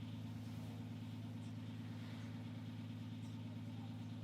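Steady low hum with a few overtones, even in level throughout.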